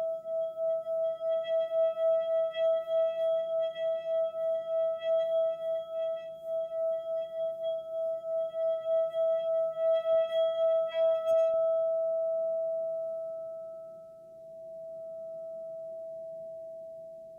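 Singing bowl ringing with one steady, sustained tone that wavers about three times a second, with a few higher overtones. About eleven seconds in, the wavering and overtones drop away, leaving a smooth single tone that fades and swells again.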